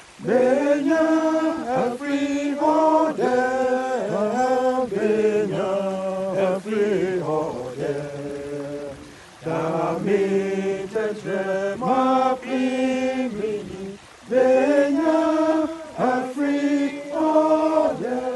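Voices singing a slow worship song in held notes, phrase by phrase, with short breaks about nine and fourteen seconds in.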